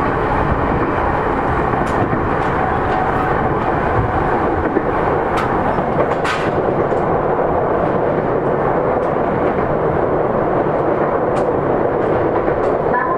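JR East E231 series (3000 subseries) electric train running, heard from inside the car: a steady rumble of wheels on rail with scattered sharp clicks.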